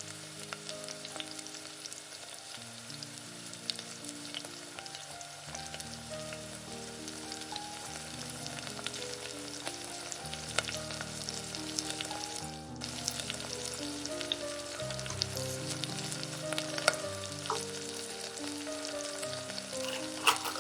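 Food frying in vegetable oil in a pan: a steady sizzle dotted with small sharp pops and crackles.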